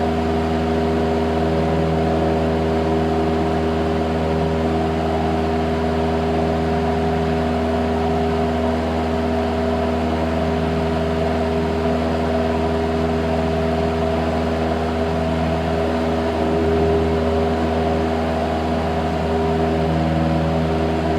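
Cessna 172's piston engine and propeller running steadily at constant power, a drone of several held tones.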